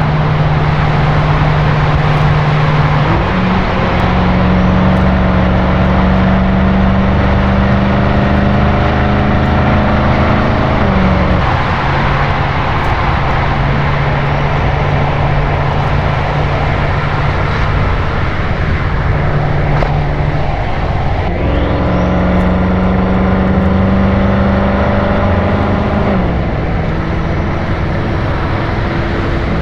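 BMW M6 Gran Coupe's twin-turbo V8 with an Akrapovič Evolution Line exhaust, recorded from outside the car while cruising at a steady speed on the expressway, over road and wind noise. Twice the exhaust note steps up and climbs slowly for several seconds under light throttle, then drops back to a steady cruise.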